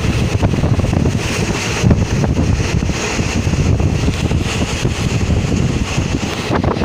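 Wind buffeting the camera microphone: a loud, uneven rumble with a hiss above it.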